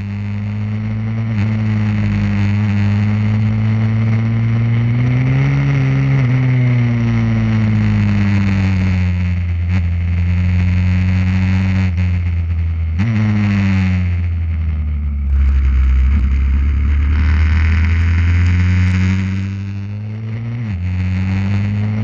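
Pit bike engine running under load, its pitch slowly rising and falling as the throttle opens and closes, with sudden pitch changes about a second in, around halfway through and near the end that fit gear changes.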